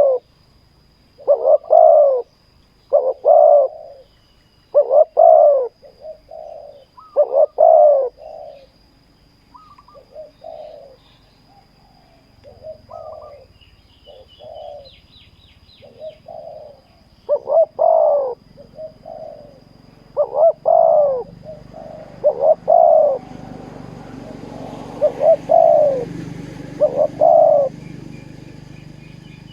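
Spotted doves cooing in repeated short phrases. Some coos are loud and close, others fainter, as if from a second bird farther off.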